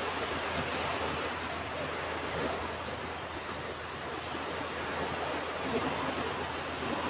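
Ocean surf: a steady wash of breaking waves, with gentle swells in loudness.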